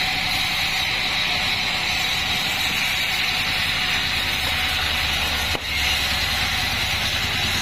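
Large band sawmill running steadily as it saws a mahogany log into beams, with a brief break in the sound about three-quarters of the way through.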